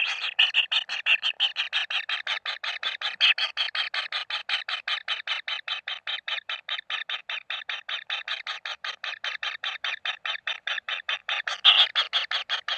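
Kingfisher chicks begging: a rapid, even series of short calls, about seven a second, with a louder stretch near the end.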